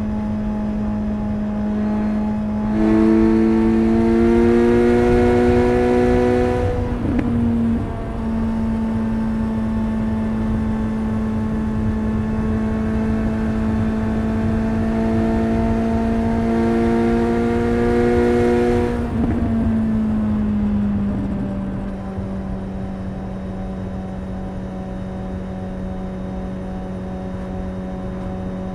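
Suzuki GSX-S 750 inline-four motorcycle engine and exhaust cruising at a steady pitch; twice the throttle is opened for a few seconds, the note growing louder and rising slightly before easing back. About twenty seconds in, the pitch drops a little and settles at a steady lower cruise.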